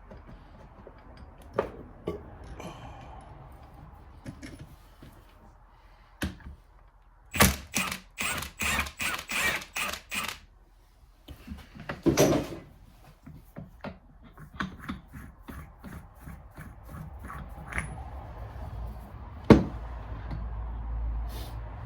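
Hand tools working on a Suzuki LTR 450 engine during teardown: a run of about ten evenly spaced sharp metal clicks, about three a second, then a short scraping rasp. A single sharp metal knock comes near the end, among scattered lighter clinks.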